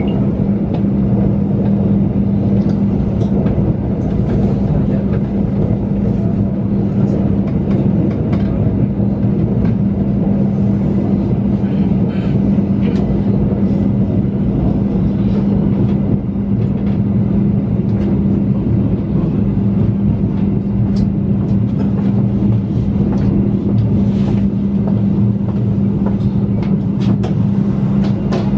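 Passenger train running through a tunnel, heard from inside the coach: a loud, steady rumble of wheels on rail with a steady low hum and faint scattered clicks.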